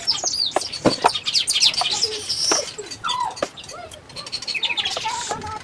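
Small birds chirping and twittering in quick high notes, with a few sharp knocks about a second in.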